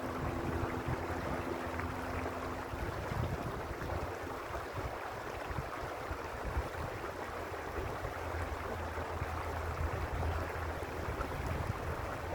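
Creek water rushing steadily over stones, with a low rumble underneath and a faint steady hum in the first few seconds.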